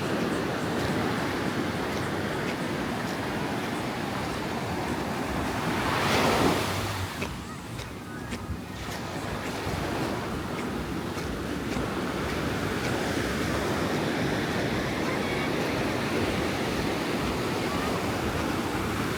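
Ocean surf breaking and washing up a sandy beach: a steady wash of waves, swelling with a bigger breaker about six seconds in and going quieter just after, with some wind on the microphone.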